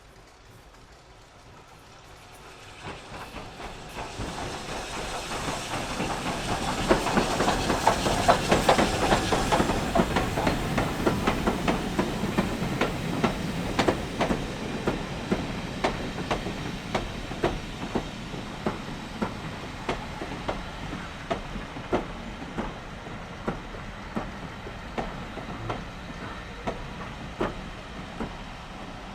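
A train on a heritage railway approaching and passing close by, loudest about eight seconds in. The wheels then keep up a long, evenly spaced clickety-clack over the rail joints as the rest of the train rolls past, slowly fading.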